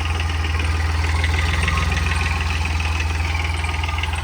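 Homemade 26 hp tractor's engine running steadily with an even, rapid firing beat.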